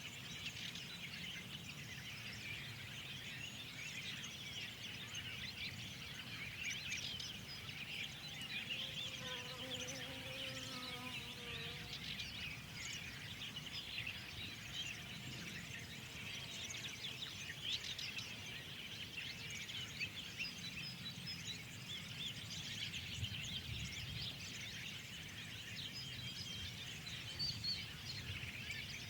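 A chorus of many small songbirds chirping and twittering without pause, over a steady low rumble of background noise. A single lower, more drawn-out call from a larger bird comes in about a third of the way through.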